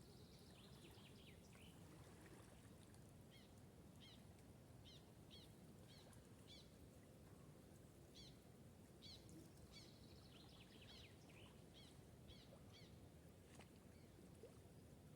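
Small birds chirping faintly: short, high, quick notes, singly and in little runs every second or so, over a steady low background hum.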